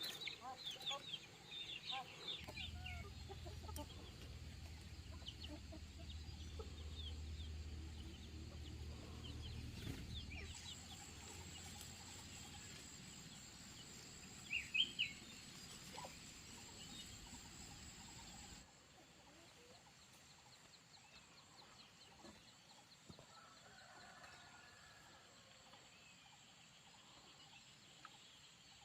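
Chickens clucking and calling in short, quick notes, busiest in the first couple of seconds, with a brief loud call about 15 seconds in. A low hum runs under the first third and stops abruptly.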